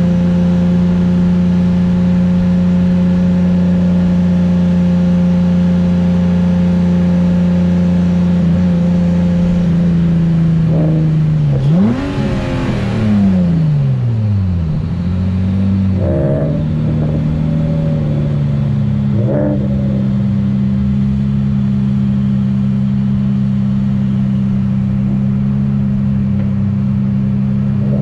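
Nissan VQ35DE V6 swapped into a Datsun S30 Z, running at steady revs. About halfway through, the revs drop and swing up and down briefly, then settle back into a steady pull.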